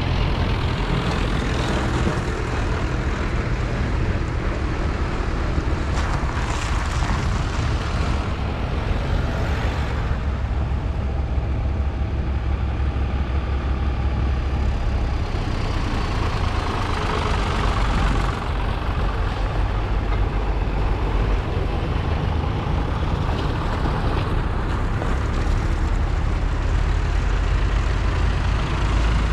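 Diesel engines of vintage tractors running as they drive along the road, a steady low engine drone whose tone shifts about halfway through as different machines go by.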